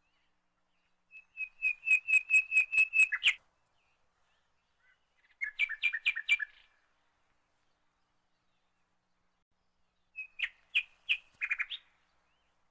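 A small bird chirping in three bursts of quick repeated notes, each burst a second or two long, about five notes a second, with pauses between.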